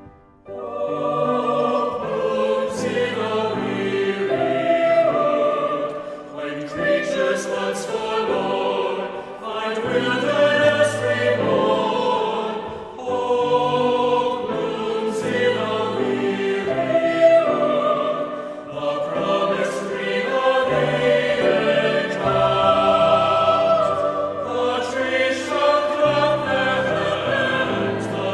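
Choir singing a sacred choral piece with accompaniment, in sung phrases that begin about half a second in.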